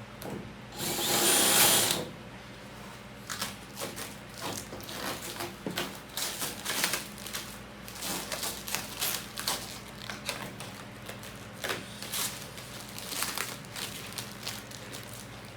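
Workshop tool and hardware noise: a loud rushing burst lasting about a second near the start, then a long run of irregular light clicks and taps, over a steady low hum.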